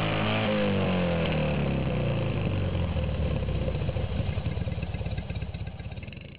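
Newly built air-cooled two-cylinder Fiat 126p engine coming down off a rev, settling into a low, uneven idle with its separate firing pulses audible, then dying away near the end.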